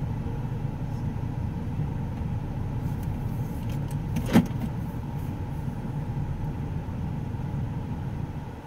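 Steady low rumble of a car's running engine, heard from inside the cabin, with one sharp click about four seconds in.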